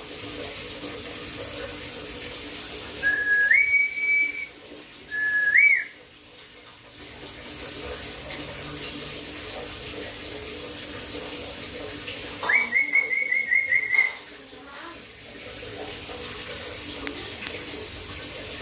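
Clear whistled notes over a steady low background hum. About three and five seconds in come two short whistles, each stepping up in pitch and holding. A quick warbling run of repeated notes lasts about a second and a half, past the middle.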